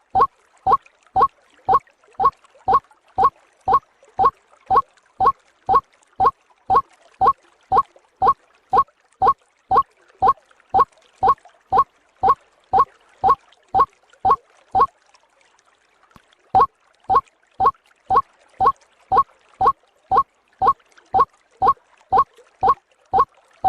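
White-breasted waterhen (ruak-ruak) call played as a bird lure: a short call repeated evenly about twice a second, with a brief break about fifteen seconds in.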